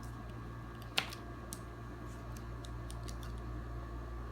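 A few light clicks and taps, one sharper about a second in, over a steady low hum.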